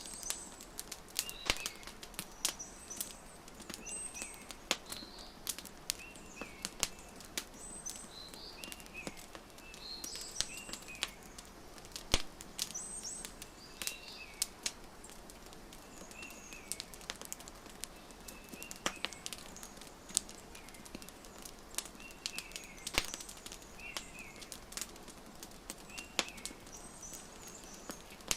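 Wood fire crackling, with irregular sharp pops, over small birds chirping in short, repeated curved notes.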